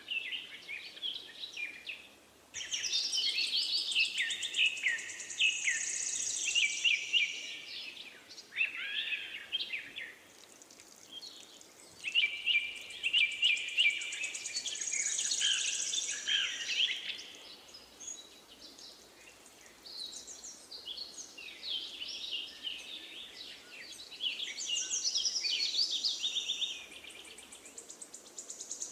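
Several birds chirping and trilling in overlapping bouts of quick, repeated high notes, with two quieter stretches between the bouts.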